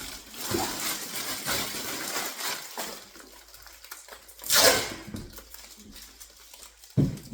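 Handling noises of unpacking: rustling, a loud swish about four and a half seconds in, and a thump near the end.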